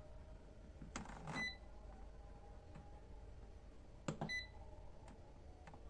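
Two short electronic beeps about three seconds apart, each coming just after a faint click: buttons being pressed on a kitchen appliance's control panel.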